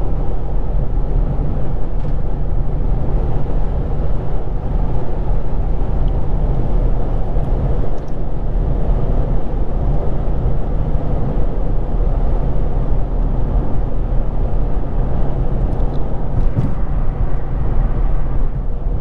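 2006 Infiniti G35 coupe's VQ35DE V6 running through a Z1 touring exhaust, heard from inside the cabin with road noise while driving at a steady pace.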